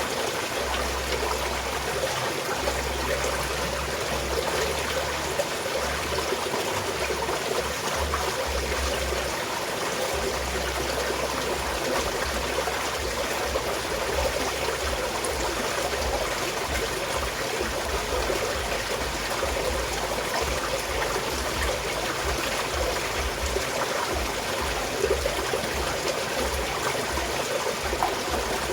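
Small mountain stream flowing and trickling steadily, with a low rumble that comes and goes underneath.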